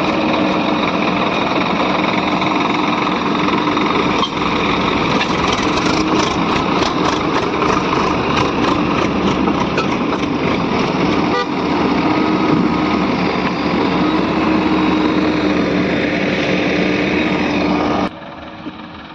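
Diesel engine of a JCB 3DX backhoe loader running steadily under work, with a steady whine over the engine note. The sound drops off abruptly near the end.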